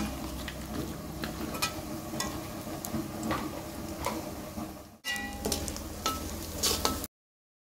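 Chopped dried dates sizzling as they fry in hot ghee in an aluminium wok, with a metal slotted spoon stirring and clicking against the pan. The sound breaks off briefly about five seconds in, then stops suddenly near the end.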